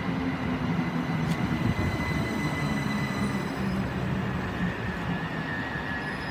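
Southern Class 377 Electrostar electric multiple unit drawing slowly into the platform: a steady low electric hum from its traction equipment with a thin high whine above it, over wheel and track rumble, easing off slightly as it comes to a stand.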